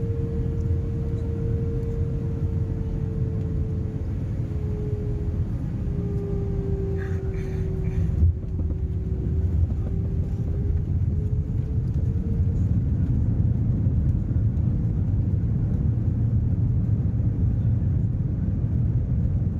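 Airliner cabin noise: a steady low engine rumble with a humming tone that drops in pitch a few seconds in and rises again later. A brief knock about eight seconds in.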